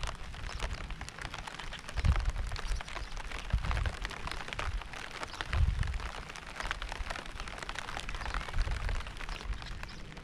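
Steady rain with many individual drops pattering close by. Deep low thuds sound now and then, strongest about two, three and a half and five and a half seconds in.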